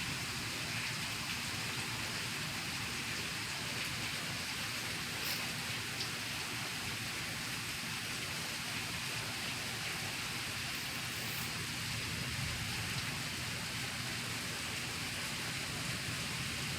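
Heavy rain falling steadily, a constant even hiss with a couple of close drop hits about five seconds in.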